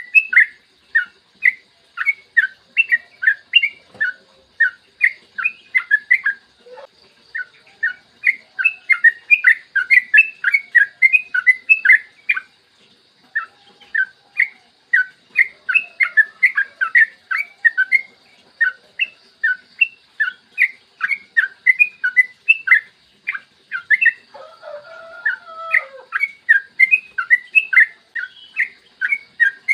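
Yellow-vented bulbul (trucukan) singing a long, rapid run of short bubbly notes, about three a second, with a brief pause partway through. A second, lower call sounds briefly under the song near the end.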